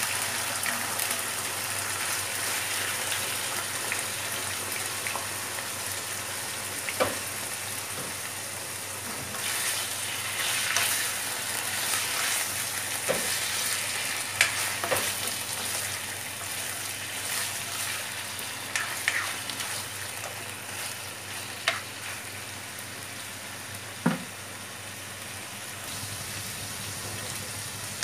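Marinated pork chunks sizzling steadily in a hot nonstick wok as they are stirred with a spatula, with a few sharp knocks of the spatula against the pan.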